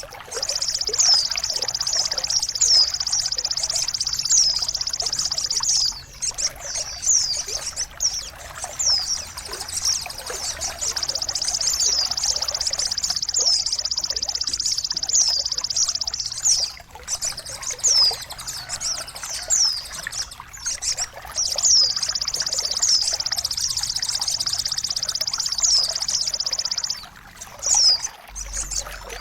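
Songbird tutor-and-therapy song recording: a high, fast trilling song with short slurred whistled notes about twice a second, over trickling water. The song breaks off briefly a few times.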